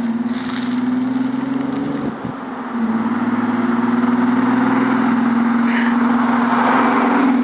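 Exhaust of a supercharged Ford Ranger's 4.0 V6 through Flowmaster 44 mufflers, an X-pipe and Magnaflow cats, running at a steady pitch; it dips briefly about two seconds in, then holds steady and a little louder.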